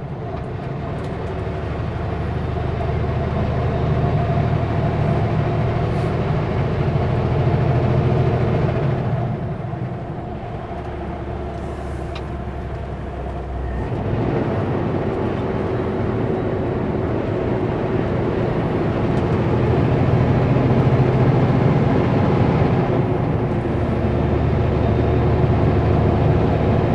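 Diesel engine of a Kenworth W900L semi truck running steadily under way. The engine note eases off a few seconds before the middle, then picks up again sharply about halfway through and builds from there.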